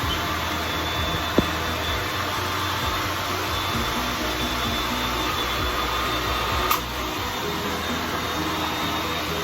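Hair dryer blowing steadily to dry the wig's lace glue, with a sharp tick about a second and a half in and a click about two-thirds of the way through, after which it runs a little quieter.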